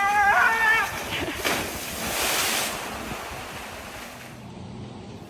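A drawn-out voice call breaks off about a second in. Then a rush of sea surf and wind noise on the microphone swells and fades.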